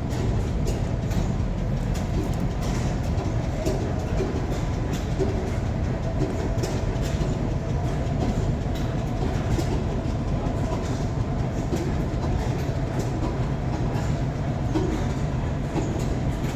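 Machinery running: a steady low rumble with light, irregular clicks and knocks over it.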